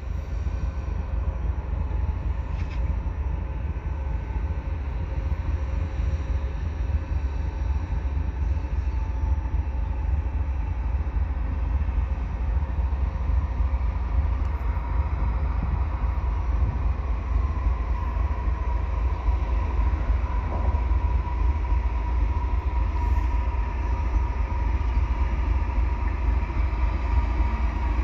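CN GE ES44AC diesel-electric locomotive, with its 12-cylinder GEVO engine, approaching slowly at the head of a mixed freight train. It gives a steady low rumble, with a thin whine that grows louder as the locomotive nears in the second half.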